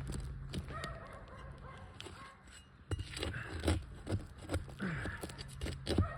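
Sharp clicks and knocks of a flat bar working roofing nails out from under an asphalt shingle, coming in a run from about three seconds in, over a steady low hum.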